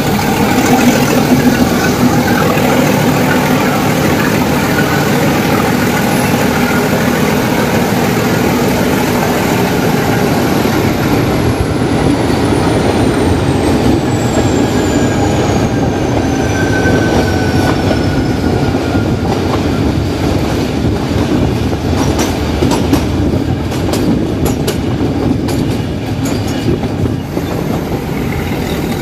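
Nilgiri Mountain Railway train running downhill on the diesel-hauled Ooty–Coonoor section: steady wheel-and-rail rumble and clatter. A thin high whine slides down in pitch around the middle, and a run of sharp clicks and knocks comes in the last third.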